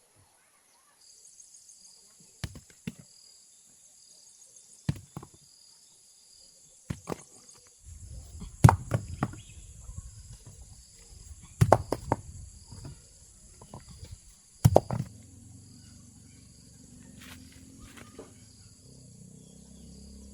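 Insects chirping in a steady, pulsing high drone, with a series of sharp knocks, often in pairs, the loudest near the middle. A low hum comes in during the second half.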